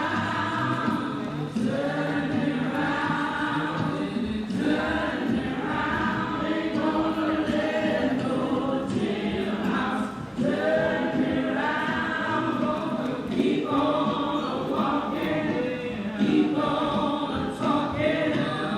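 A choir of voices singing together, held sung notes continuing throughout.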